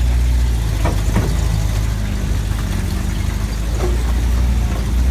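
Motor vehicle engine running steadily at low revs, with a few faint knocks as it moves.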